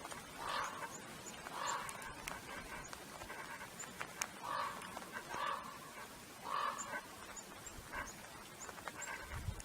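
A dog panting in soft, uneven puffs about once a second, with faint high chirps in the background.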